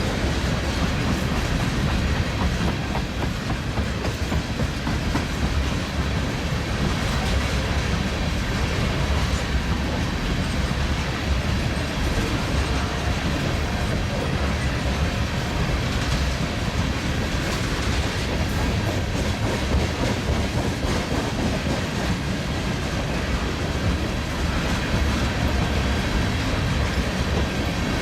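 Freight train of empty ethanol tank cars rolling steadily across a railroad river bridge, the wheels clicking and clattering over the rail joints.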